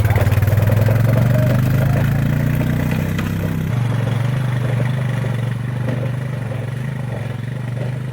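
Vehicle engine running at low speed on a slow drive, its note dropping slightly a little under four seconds in.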